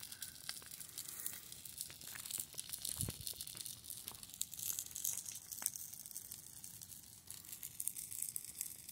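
Fire crackling faintly, with scattered sharp pops over a steady hiss as the flames burn through the structure.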